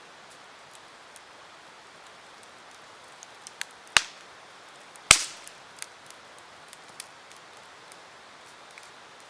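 Wood campfire crackling: scattered small ticks over a soft steady hiss, with two sharp pops about four and five seconds in.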